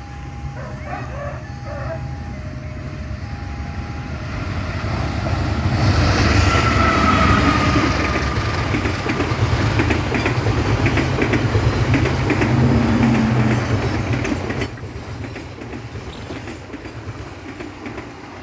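A passenger train hauled by a CC 201 diesel-electric locomotive passing close by, with a low rumble and wheels clacking over the rail joints. It builds from about five seconds in, with a brief falling whine as it arrives. The noise drops off abruptly near fifteen seconds as the last coach goes by.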